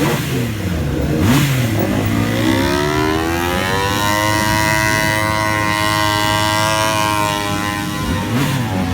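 Motorcycle engines revving: quick throttle blips in the first two seconds, then one engine climbs and holds at high revs for about four seconds before dropping back near the end, over the steady hum of another engine idling.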